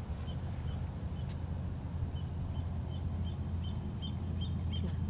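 A small bird giving a quick run of short, high peeping calls, about two or three a second, starting about two seconds in, over a steady low rumble.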